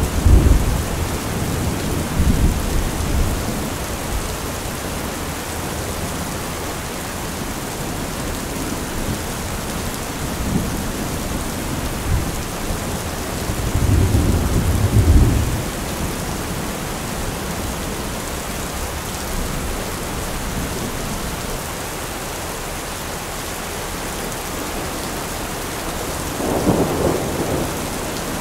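Steady rain falling, with rolls of thunder: one dying away at the start, a louder rumble about halfway through, and another building near the end.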